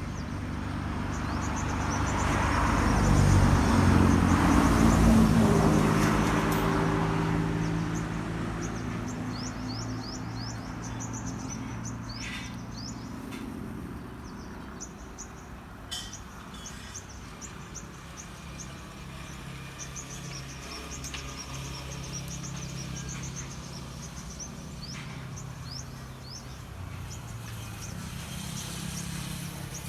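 An engine passes close by, swelling to its loudest about four to five seconds in and then fading, with a lower engine drone lingering afterwards. Small birds chirp throughout.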